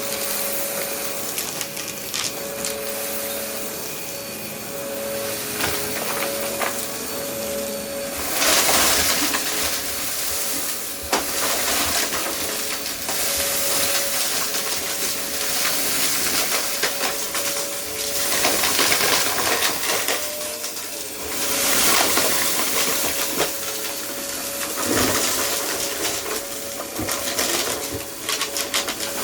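A vacuum cleaner running with a steady motor whine, clattering as it sucks up scattered debris. The noise swells louder several times, around 9, 19 and 22 seconds in.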